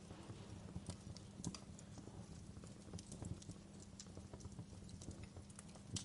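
Wood fire in a fireplace crackling: irregular sharp pops and snaps over a steady low rumble of the flames, with a louder pop near the end.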